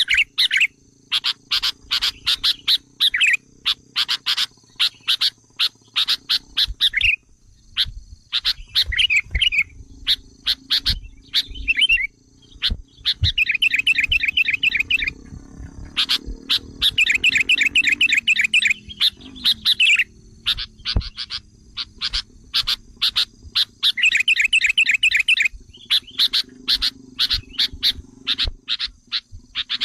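Sooty-headed bulbul calls from a lure recording meant to excite wild bulbuls: a dense run of sharp, quick chips. Three times, the chips break into bursts of fast chattering trill, each lasting a second or two.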